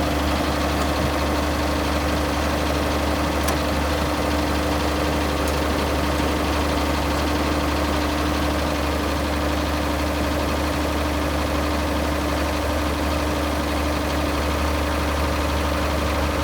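International 656 utility tractor's diesel engine idling steadily, holding an even speed.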